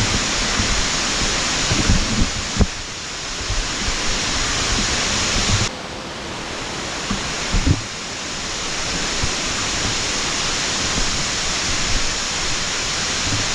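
Waterfall water rushing as a steady, even hiss of falling water, with a few short low thumps on the microphone. The rush drops suddenly about six seconds in, then slowly builds back up.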